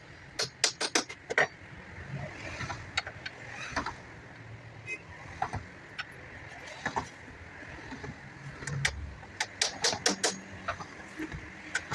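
Woodworking hand-tool strikes: quick runs of sharp taps, about five a second, near the start and again near the end, with scattered single knocks in between.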